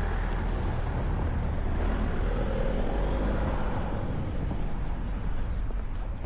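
Road traffic: a motor vehicle driving past, a steady low rumble with tyre and engine noise.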